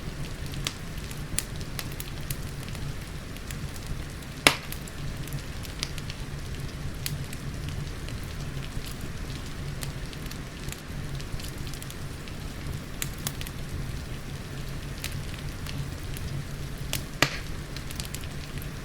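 Wood fire crackling with frequent small clicks and two louder pops, one about four seconds in and one near the end, over a steady hiss of rain and a low steady hum.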